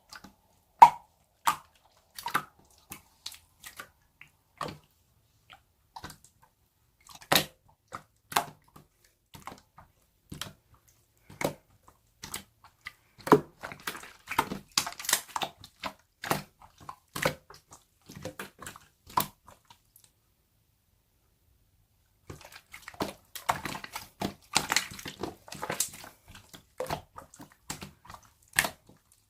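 Slime being squeezed, pressed and poked by hand, giving sharp clicks and pops of trapped air, singly at first and then in dense crackling runs, with a short pause about two-thirds through.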